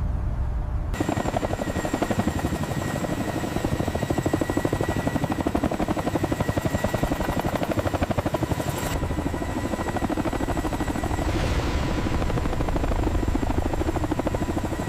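Helicopter rotor blades chopping rapidly with a steady turbine whine. It starts about a second in, over a low rumble.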